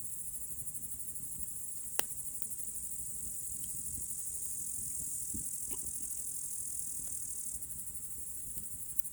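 Crickets trilling together, a steady high-pitched chorus that pulses rapidly, with a single sharp click about two seconds in.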